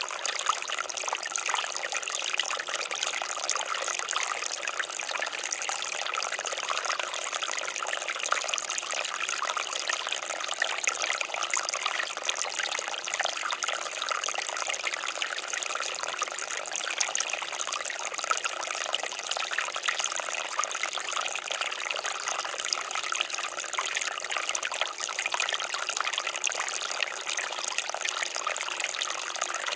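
Water fountain splashing and trickling steadily, a continuous patter of falling water with no low rumble.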